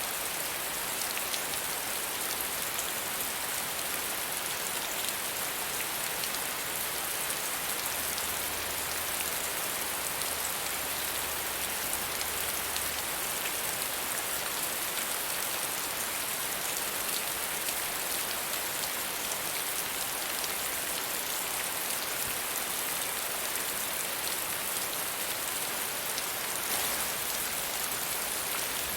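Steady soft rain falling, a continuous even hiss with many faint, fine drop taps.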